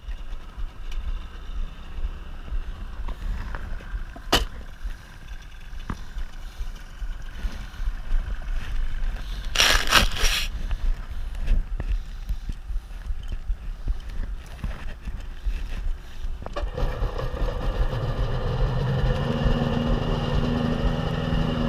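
A 1994 Sea-Doo XP jet ski's 80 hp two-stroke engine starts about three-quarters of the way through and settles into a steady idle to warm up. Before it there is only a low rumble of wind and water, with a brief loud hiss about ten seconds in.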